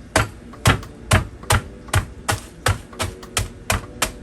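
A meat tenderizer pounding vanilla cookies in a plastic Ziploc bag, crushing them into crumbs. The blows are steady and even, about two to three a second.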